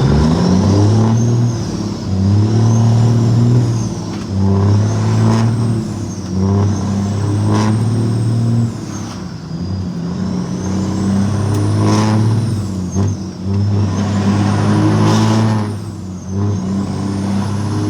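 Semi truck's diesel engine pulling under way; its note drops out and picks up again several times, with a thin high whistle rising and falling over it and a few short hisses.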